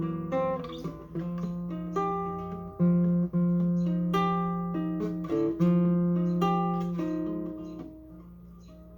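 Acoustic guitar playing bossa nova chords as an instrumental ending, each chord plucked and left to ring, growing softer near the end.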